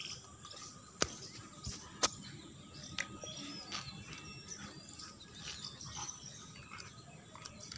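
Small birds chirping in the background, with three sharp clicks about one, two and three seconds in.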